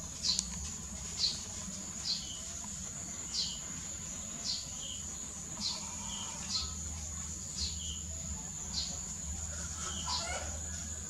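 A bird repeating a short, falling chirp about once a second, over a steady high-pitched insect drone.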